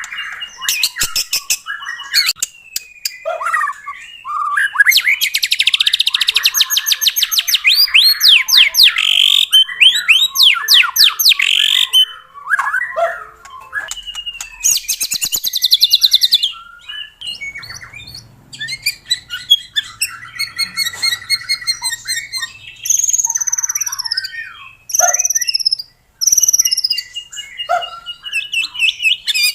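White-rumped shama (murai batu) singing a varied song. Fast rattling trills alternate with clear whistles, and downward-slurred notes come near the end.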